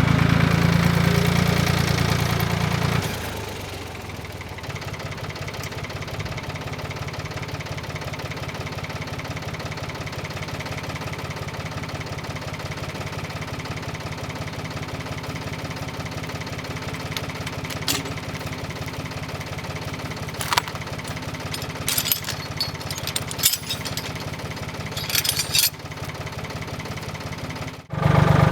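An engine running, louder at first, then settling to a lower, steady idle about three seconds in. Scattered short knocks and clicks come in the second half.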